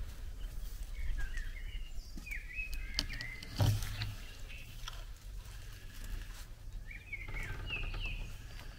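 Birds chirping in short phrases, twice, over a low steady rumble, with a click and then a thump about three and a half seconds in.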